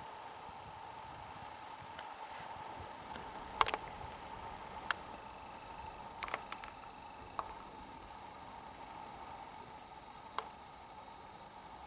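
Insects chirping in a high-pitched, fast-pulsing trill that breaks off briefly every few seconds, with a few sharp clicks, the loudest about three and a half seconds in.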